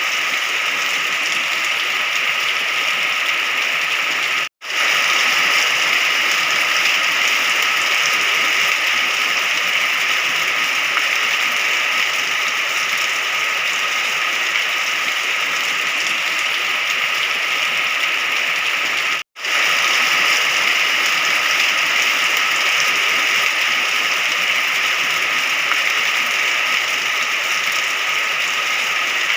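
Steady rain falling, an even hiss with no single drops standing out, cutting out to silence twice for a split second.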